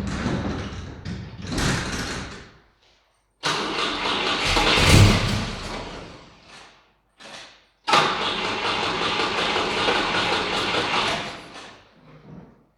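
Volvo 145 engine on twin Weber carburettors being cranked and fired in several separate start attempts, each stopping abruptly. The car is hard to start after standing because fuel does not reach the carburettors, so fuel is being sprayed into the intakes to get it going.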